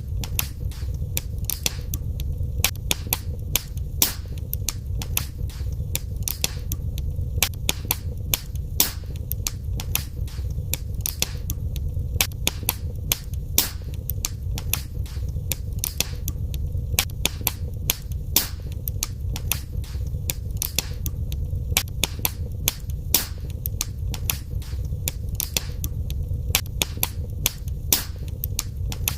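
Wood fire burning in a fireplace: frequent sharp crackles and pops at irregular intervals over a steady low rumble of the flames.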